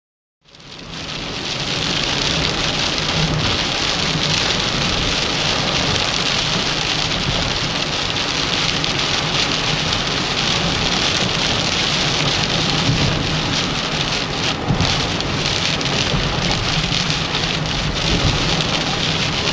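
Heavy rain pouring steadily, with gusts of strong wind. The sound fades in just after the start and then holds loud and even.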